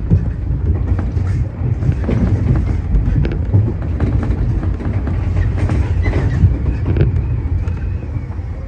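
Tobu 30000 series electric train running along the line, heard from the front car. A steady low rumble with scattered clicks of the wheels over rail joints.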